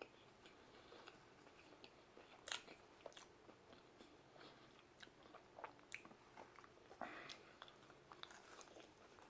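A person chewing a mouthful of pizza with faint, scattered wet mouth clicks and smacks, a louder smack about two and a half seconds in and again about seven seconds in.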